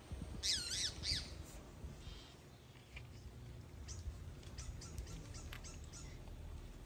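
A bird squawks about half a second in, a short run of quick up-and-down wavering notes, with one more call about a second in.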